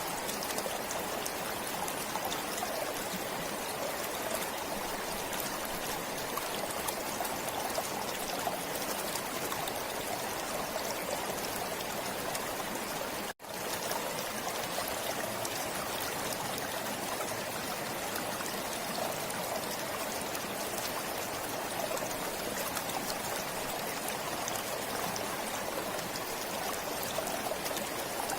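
Forest stream flowing steadily over rocks, a continuous rushing and trickling of water, with a momentary dropout about halfway through.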